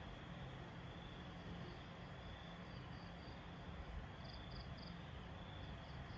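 Insects chirping at night in short high pulses, some in quick groups of three, over a faint steady hiss.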